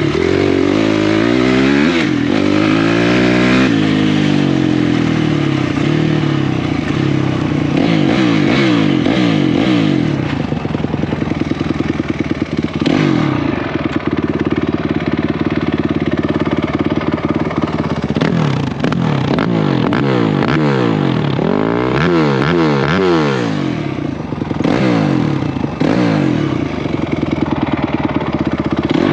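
Honda 250X and Kawasaki 450R single-cylinder four-stroke engines racing flat out. Their pitch climbs and drops over and over as the riders rev up and shift, and the sweeps of the two engines overlap.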